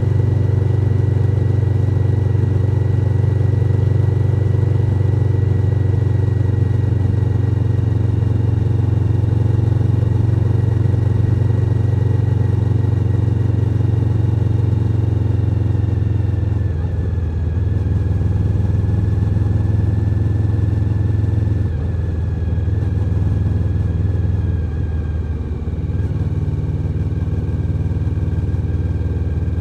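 Suzuki SV1000N's 996 cc V-twin engine running at a steady cruise. The engine note dips briefly a few times in the second half.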